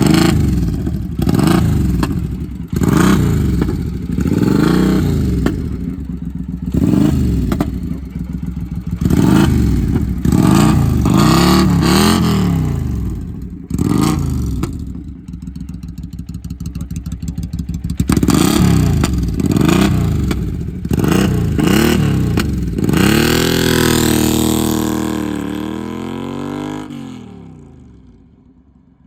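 2006 Triumph Bonneville America's 790cc parallel-twin engine through a loud slip-on exhaust, revved in quick repeated blips, each rising and falling within a second or two. After one longer rev it drops back and becomes much quieter near the end.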